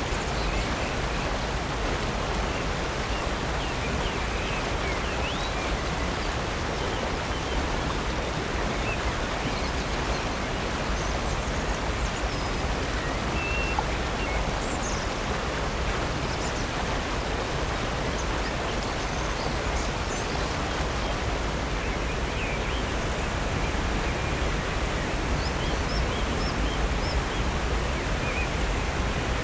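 Steady rush of falling and flowing water from a waterfall and creek, with faint, scattered bird chirps above it.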